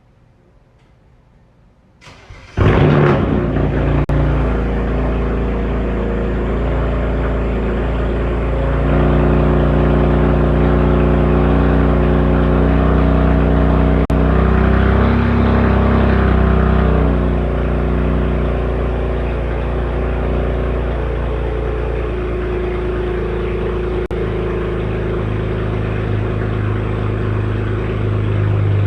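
BMW 335i's N54 twin-turbo inline-six, fitted with catless downpipes and a straight-piped exhaust, starting about two seconds in with a loud flare of revs, then idling loud and steady. Revs lift a little in the middle and then settle back to a lower idle.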